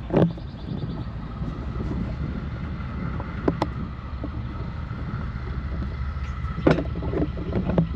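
Freight train moving off after its brakes are released: a steady low rumble of the wagons rolling, with a few sharp metallic clanks and a faint high held tone over it.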